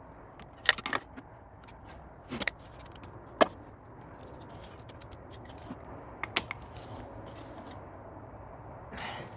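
Scattered light clicks and knocks of tools and engine parts being handled, the sharpest about three and a half seconds in, over a faint steady hum.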